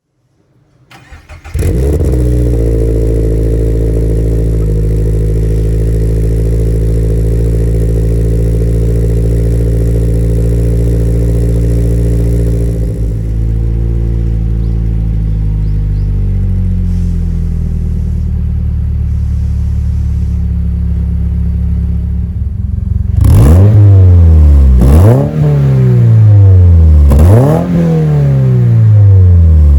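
Toyota GR86 / Subaru BRZ 2.4-litre flat-four heard through a straight-through titanium single-exit aftermarket exhaust (COLBASSO Ti-R Plus). The engine starts about a second and a half in and idles steadily, the idle dropping lower around the middle. It then gets four quick throttle blips near the end, each rising and falling in pitch.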